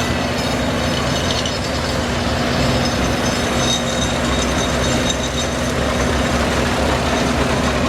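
Farm tractor engines running steadily as tractors drive past, with a constant low hum.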